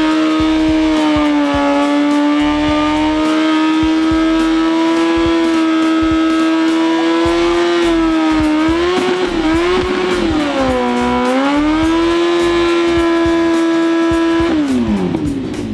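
Motorcycle engine held at high revs during a burnout, the spinning rear tyre adding a steady hiss of rubber. The revs dip and recover a couple of times around the middle, then drop away sharply near the end as the throttle is closed.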